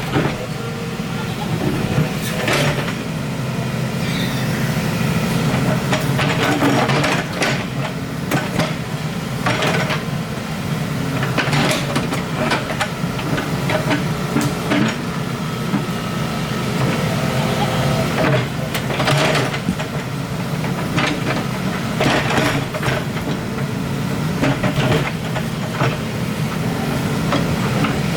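Excavator's diesel engine running steadily while digging, with frequent knocks and clanks of the machine at work.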